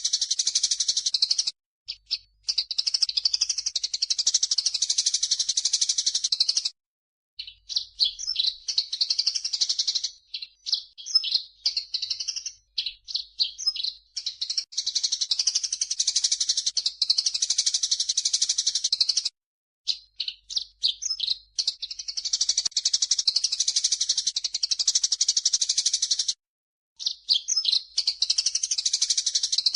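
Recorded masteran birdsong combining cucak jenggot and Eurasian tree sparrow: long bursts of dense, high chattering and twittering broken by short pauses, with a stretch of separate quick chirps in between.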